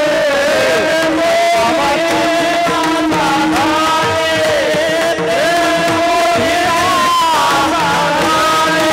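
Kirtan devotional music: a sung melody that slides and ornaments over a steady held drone note.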